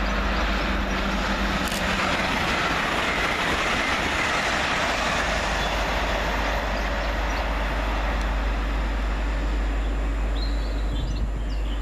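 Great Western Railway Class 800 train passing through the station without stopping: a steady rush of wheel and air noise. Faint bird chirps come in near the end.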